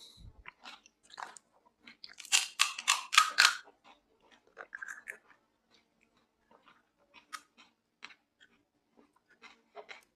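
Close-miked eating: crisp pani puri shells crunched in a burst of loud crackles a couple of seconds in, then quieter, scattered chewing clicks.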